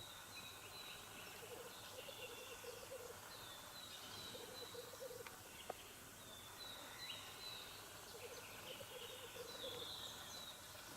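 Distant black grouse lekking: a chorus of bubbling, cooing song in repeated strings, faint and continuous, with short high calls over it.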